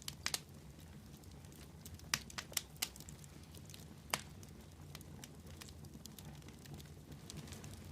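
Wood fire crackling: scattered sharp pops over a low steady rumble, with a quick run of several pops about two to three seconds in and one more loud pop about four seconds in.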